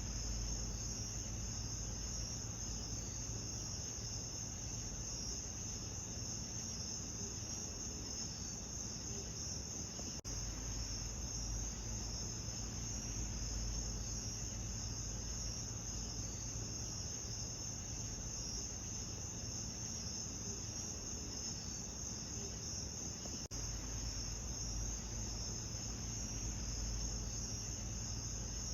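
Dense chorus of crickets chirping steadily in a high band, over a continuous low rumble, with two faint clicks about ten seconds and twenty-three seconds in.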